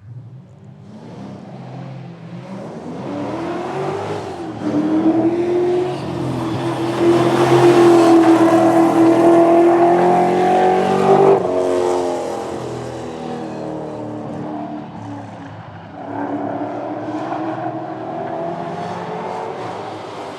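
A car engine accelerating hard on a drag-strip run. Its pitch climbs, dips at a gear change, and is loudest a few seconds before dropping off sharply and fading. About sixteen seconds in, the engine note rises again.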